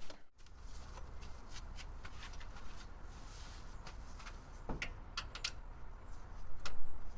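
Faint, scattered clicks and small metal knocks of hand tools being handled, a socket and torque wrench going onto the steering-box bolts, with a few sharper clicks a little past halfway.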